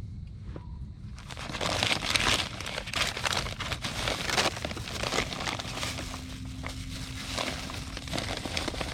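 Food sizzling and crackling in a hot campfire frying pan, starting suddenly about a second in with dense popping that is loudest for the next few seconds and then eases.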